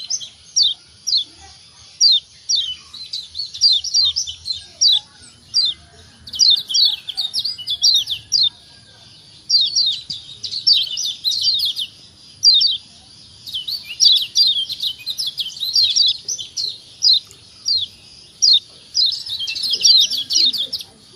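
Kecial kuning (Lombok yellow white-eye) giving its sharp, high 'ciak ciak' chip calls: rapid runs of short falling notes, broken by brief pauses.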